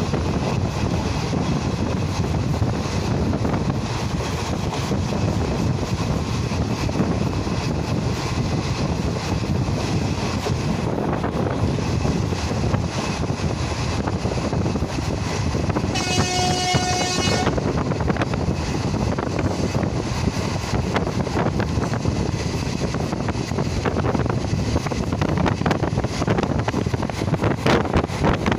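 Passenger train running at speed, heard from the coach: a steady rumble of wheels on the rails, with wind buffeting the microphone. About sixteen seconds in, a horn sounds once for about a second and a half.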